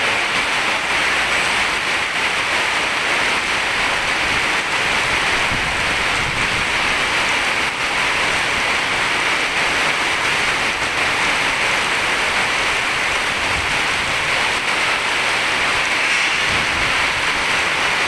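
Heavy rain pouring steadily onto a wet road, a dense, even hiss.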